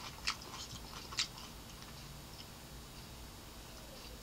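A person chewing a bite of cucumber slice close to the microphone: a few crisp crunches in the first second or so, then faint, quiet chewing.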